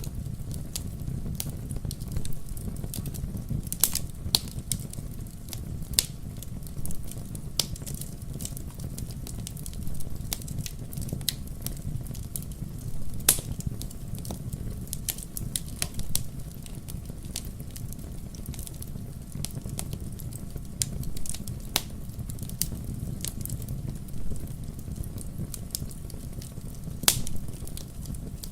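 Wood logs burning in a fireplace: a steady low rumble of flames with frequent sharp, irregular crackles and pops, a few louder ones standing out.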